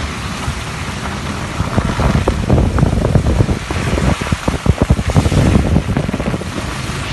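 Heavy rain and hail coming down, a steady rush of noise with many sharp, irregular hailstone impacts from about a second and a half in.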